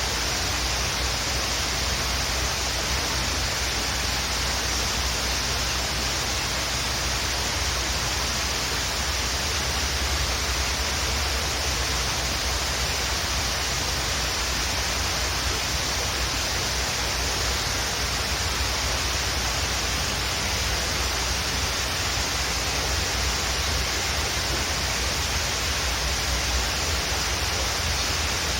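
Waterfall pouring steadily: an even rush of falling water with a deep rumble underneath, unchanging throughout.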